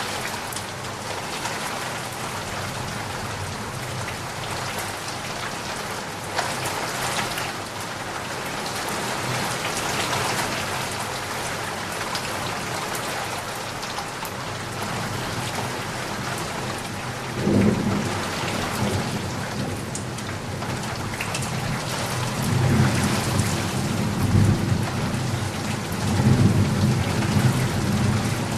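Steady rain falling, with low rumbles of thunder: one about two-thirds of the way in, then longer rolling rumbles near the end.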